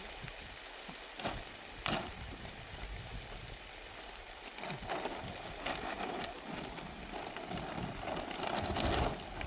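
Steady rain, with a few sharp knocks and taps scattered through it and a louder stretch near the end.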